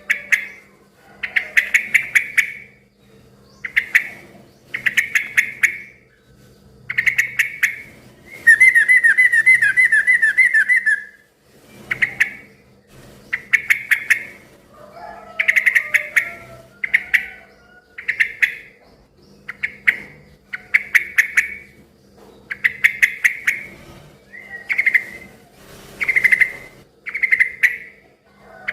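Yellow-vented bulbul (trucukan) calling vigorously: short, bubbling, chattering phrases repeated about once a second. About a third of the way in comes a longer, rapid trill of falling notes lasting a couple of seconds.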